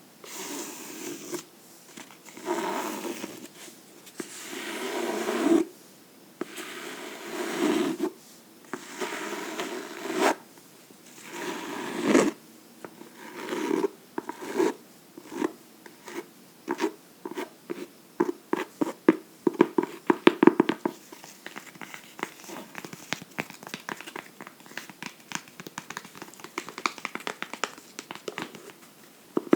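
Fingernails scratching a book in slow strokes about a second long, then switching about halfway through to quick short scratches and taps, several a second.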